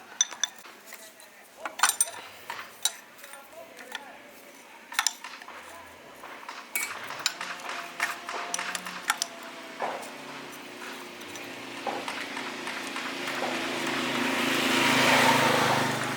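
Metal tools clinking and tapping against metal machine parts, with several sharp clinks in the first half. Later a low steady hum and a rushing noise build up, swelling to their loudest near the end.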